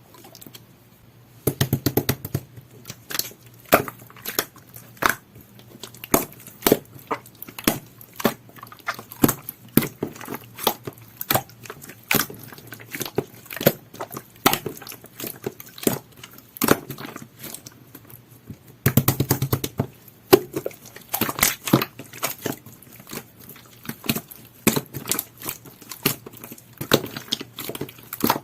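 Pink two-layer jelly-textured slime being squished and poked by hand, making irregular sticky clicks and crackles. Quick runs of rapid clicks come about a second and a half in and again about two-thirds of the way through.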